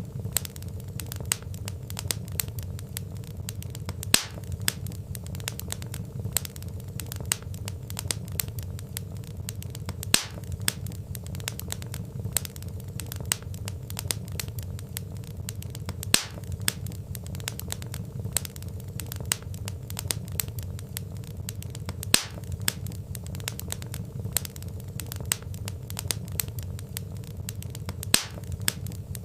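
Wood fire crackling: dense small snaps of burning logs over a steady low rumble, with a louder pop about every six seconds.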